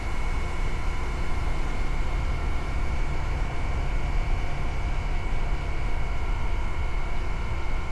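Motorcycle on the move: steady wind rumble on the microphone over the running engine, with no change in pace.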